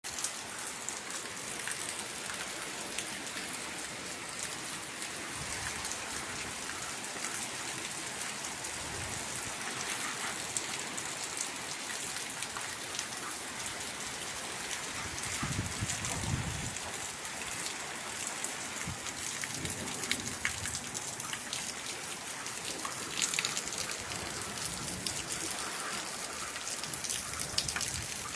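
Steady rain falling, with many drops pattering on a surface, and a brief low rumble about halfway through.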